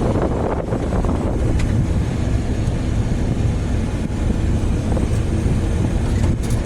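Car driving along a road: steady low engine and tyre rumble with wind noise on the microphone.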